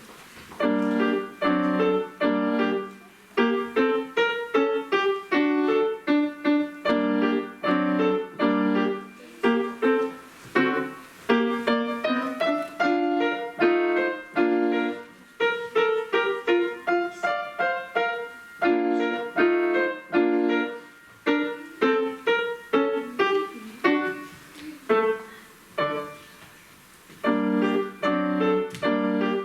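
Solo piano playing a lively piece in short, detached notes and chords, with a brief pause near the end before it resumes.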